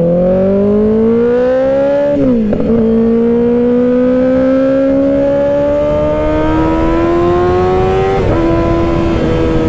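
2024 Kawasaki ZX-6R's 636 cc inline-four running through an M4 exhaust under hard acceleration. The engine pitch rises, drops at an upshift about 2 seconds in, climbs again more slowly, and drops at a second upshift near 8 seconds, over steady wind noise.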